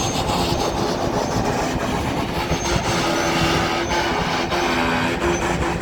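CN freight train's cars rolling past as the train slows down, a steady rumble with wheels clicking over the rails and a few brief high squeals.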